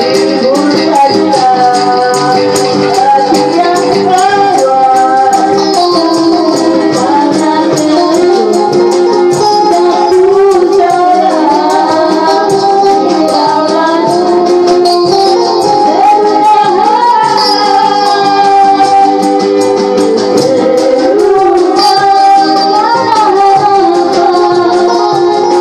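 A song: a voice singing a melody over musical accompaniment, with a rattling, shaken percussion part.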